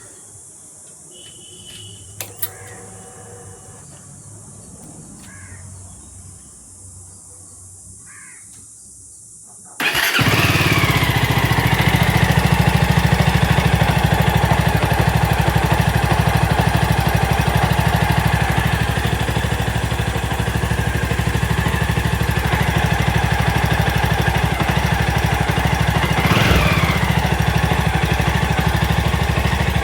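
Jawa 42's single-cylinder engine with aftermarket stainless-steel Scrambler silencers, quiet at first apart from faint chirps and a couple of clicks, starts abruptly about a third of the way in and then idles steadily. It has a short rise and fall in revs near the end. Its note is much like the stock exhaust.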